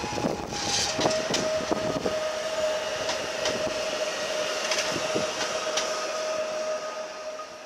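Pesa Dart ED161 electric multiple unit running past, its wheels clicking over the rail joints. A steady high whine comes in about a second in, and the sound fades near the end as the train leaves.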